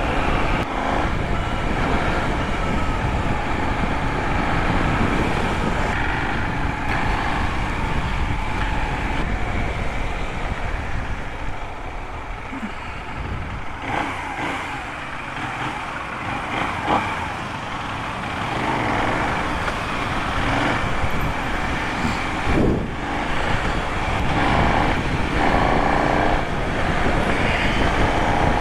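Benelli 752 S motorcycle's 754 cc parallel-twin engine running under way, revving up and easing off several times, with a softer stretch in the middle.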